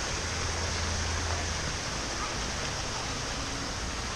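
Steady, even rushing noise with a low hum underneath for the first second and a half.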